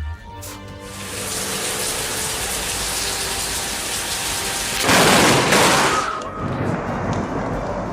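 Steady hiss of heavy rain pouring down, with a sudden louder burst about five seconds in that lasts about a second before easing back.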